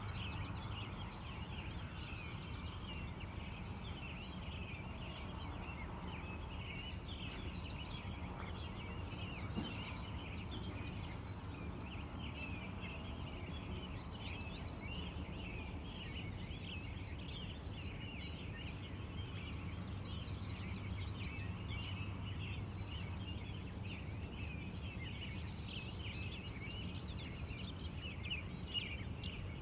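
Dawn chorus of many wild birds chirping and trilling over one another without a break, over a steady low hum.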